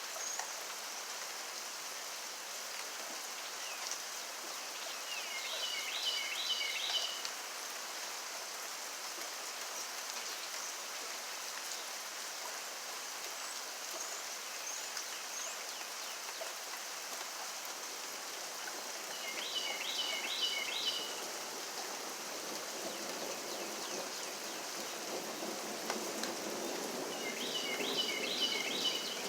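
Steady rain falling. A bird calls three times over it, each call a quick run of four or five short notes.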